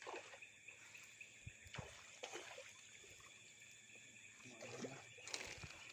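Near silence: faint outdoor ambience by the water, with a steady high-pitched hum and a few faint, short, scattered sounds.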